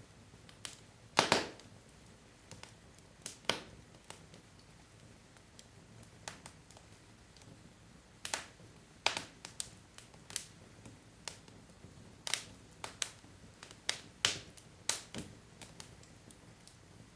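Wood logs burning in a fireplace, crackling with irregular sharp pops over a faint steady hiss; the loudest pop comes about a second in.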